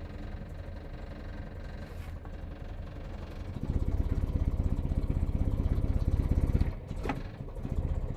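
Land Rover Series 109's 2.25-litre four-cylinder petrol engine running at a slow, lazy idle just after starting, then revving up about three and a half seconds in as the accelerator pedal is pressed by hand to keep it from stalling. It sags briefly near the end before picking up again.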